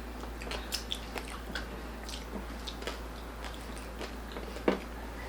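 Close-up chewing and biting of crispy pork belly (lechon belly): irregular crisp crunches and clicks, one louder bite near the end.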